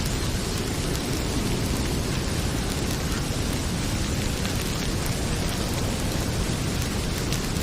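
Heavy rain pouring steadily, with a deep rumble underneath. A few faint crackles from a wood fire in a fireplace come through near the end.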